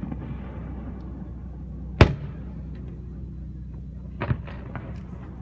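Fireworks going off: one loud, sharp bang about two seconds in with a ringing tail, then a quick cluster of smaller bangs a little after four seconds, over a steady low hum.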